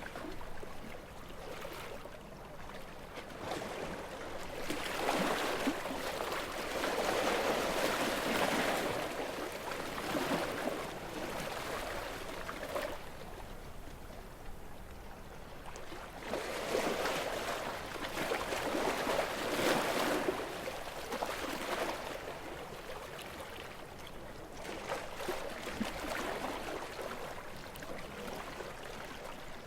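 Gentle sea waves washing in and receding, swelling and ebbing every several seconds.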